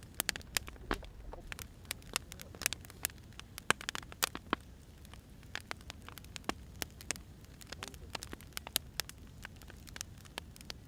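Firewood burning with irregular sharp pops and snaps over a low, steady hiss.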